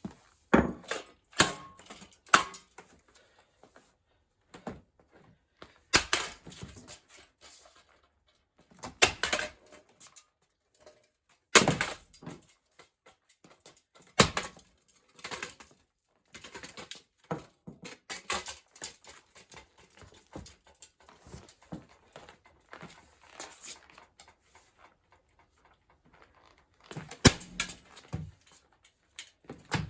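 A 10-pound sledgehammer striking a ceiling fan again and again at irregular intervals, sharp heavy blows with smaller knocks and rattles between them.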